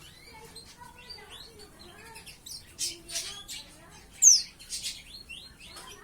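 Young pleci (white-eye) chirping and calling in short, varied high notes, with one loud note sweeping down in pitch about four seconds in. The bird is only starting to learn its song.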